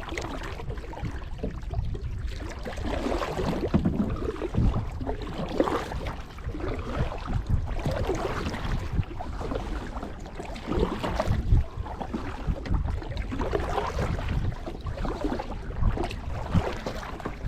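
Kayak paddle strokes dipping and pulling through lake water, an uneven run of watery swishes and splashes.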